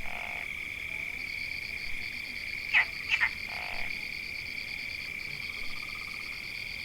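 Forest animal chorus: a steady high trilling, with a faster-pulsing trill above it, and a few short loud calls about three seconds in.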